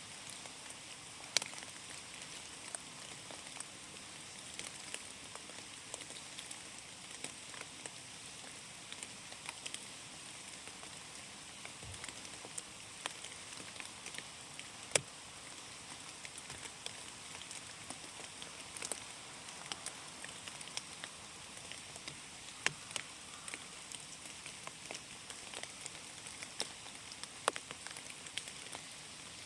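Rain falling in a forest: a steady soft hiss with many scattered, irregular sharp ticks of single drops striking leaves.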